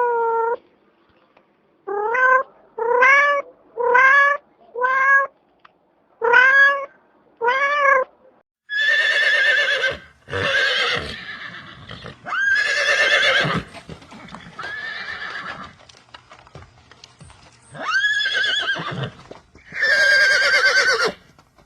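A cat meowing over and over, about eight short rising meows, then from about nine seconds in a horse whinnying several times in long, quavering calls.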